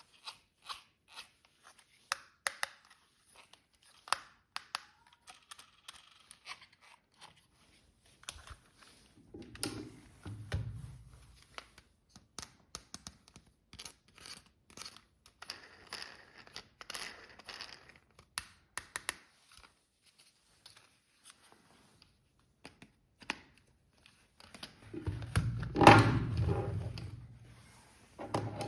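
Hands unpacking a toy from its packaging: many sharp plastic clicks and taps, with a few bouts of tearing and crinkling. The longest and loudest tearing comes near the end.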